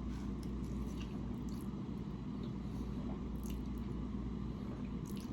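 Close-miked chewing and squishy mouth sounds of eating, with a few soft wet smacks, over a steady low hum.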